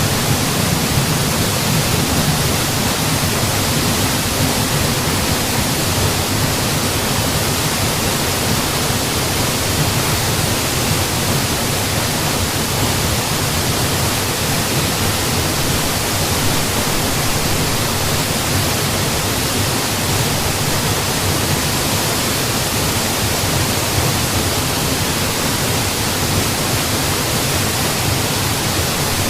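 Waterfall pouring steadily, a dense unbroken rushing hiss of falling water.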